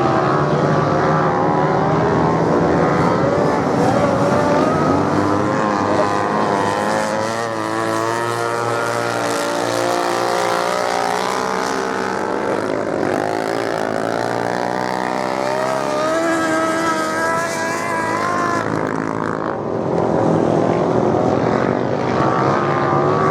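Several racing motorcycle engines running and revving together, their pitches rising and falling and overlapping as the bikes accelerate, shift and pass.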